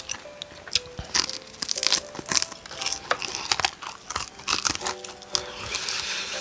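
Close-miked crunching and crackling of the crispy coating of Korean market-style fried chicken being bitten and torn apart, in quick irregular strokes, denser in the second half.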